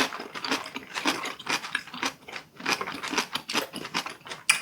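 Close-miked eating noises: a rapid, irregular run of small wet clicks and smacks from chewing.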